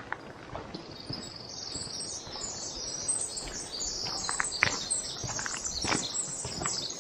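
Small birds chirping in rapid, high, repeated notes that start about a second in, over a person's footsteps on the trail.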